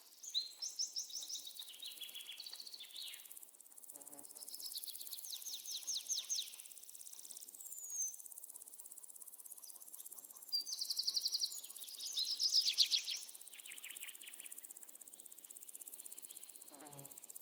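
Outdoor wildlife calls: short, rapid high-pitched chirping trills in bursts every few seconds.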